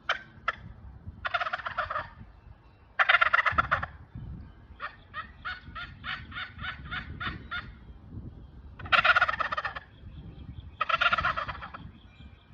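Turkey gobbles made on a diaphragm mouth call, the hand cupped over the call for a darker tone like a mature bird, heard from a little further away: four rattling gobbles of about a second each. In the middle comes a run of about a dozen evenly spaced short notes, roughly four a second.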